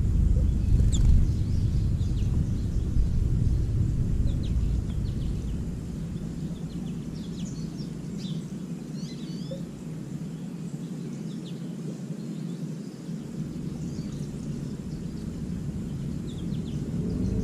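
Small songbirds giving short, high chirps over a low rumble that fades in the middle and swells again near the end.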